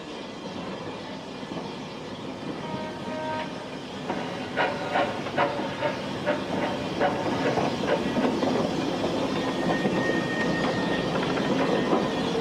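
Andrew Barclay industrial steam locomotive running on the line, with a steady hiss of steam. It grows louder about four seconds in, where a run of sharp clicks comes about twice a second for a few seconds.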